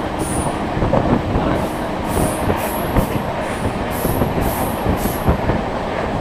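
Moving train's wheels running on the rails: a steady loud rumble with scattered knocks over the track. Short high squeaks repeat about twice a second until near the end.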